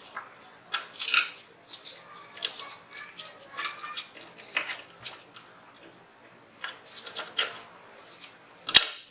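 Steel parts of a Zigana 36 pistol clicking and scraping as they are handled and fitted together during reassembly, in irregular small clicks, with one sharp, loud click near the end.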